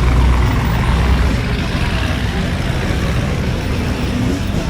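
Engine rumble from cars driving past in a muscle-car parade, a deep low rumble that is strongest in the first second and a half and then eases off.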